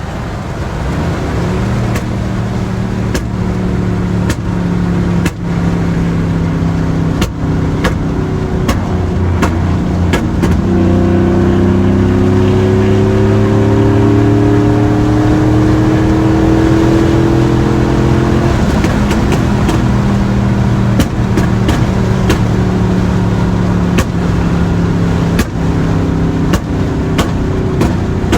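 Chevrolet Silverado 5.3-litre V8 running through long-tube headers and a full 3-inch Magnaflow Magnapack exhaust while driving. Its pitch climbs steadily for several seconds as the truck accelerates, then drops back to a steady cruise.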